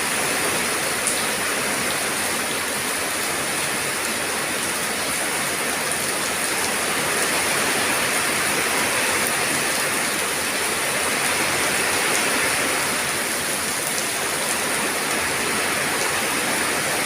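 Steady rain falling, an even rushing hiss with a few faint drop ticks.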